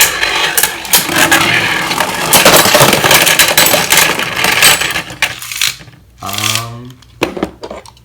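Plastic Beyblade parts and packaging being handled: a dense rustle with rapid small clicks and rattles, thinning out to a few scattered clicks after about five seconds.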